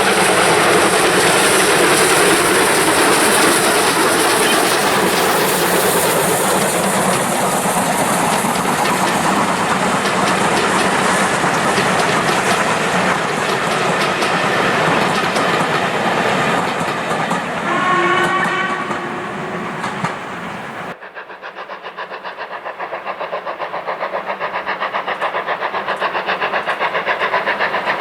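Steam train running past at close range, a loud continuous rush, with a short whistle blast about two-thirds of the way through. After an abrupt cut, a train's fast, evenly repeating beats that grow steadily louder.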